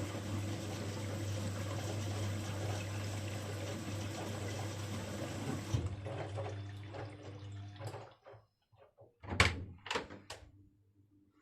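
Bosch Avantixx 6 washing machine rushing water with a steady low hum, which cuts off about halfway through and fades away. Three sharp knocks come near the end.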